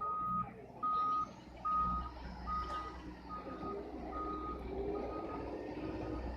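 Fire engine's backup alarm beeping steadily, about one beep every 0.8 seconds, as the truck reverses, over the low rumble of its engine. The first few beeps are the loudest, and the rest are fainter.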